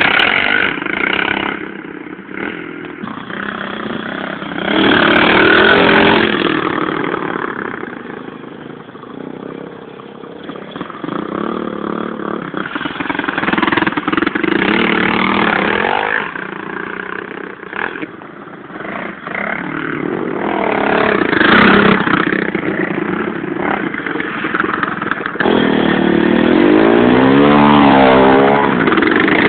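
Pit bike engines revving up and down as the bikes ride by, the sound swelling and fading several times. Near the end one engine is blipped in quick rises and falls of pitch.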